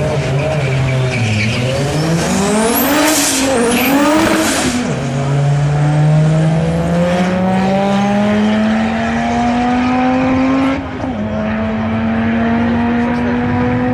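Audi S2's turbocharged five-cylinder engine launching down a drag strip at full throttle. The revs flare up and drop back twice in the first few seconds with a high squeal. Then the pitch climbs slowly for several seconds, dips briefly about eleven seconds in at a gear change, and climbs again.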